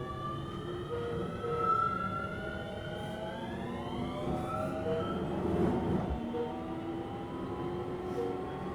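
Keio 7000 series electric train heard from on board, its traction motors and inverter whining in several tones that rise in pitch as the train accelerates. About halfway through the whine changes and drops lower, then climbs again, over a steady rumble of wheels on rail.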